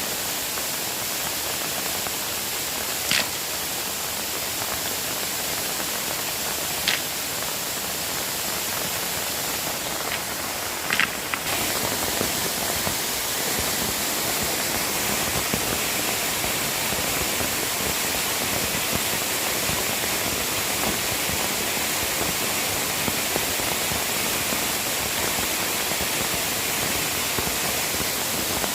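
Steady rushing water noise, like a river or a downpour, with a few short sharp clicks in the first half. The noise grows slightly louder a little before halfway.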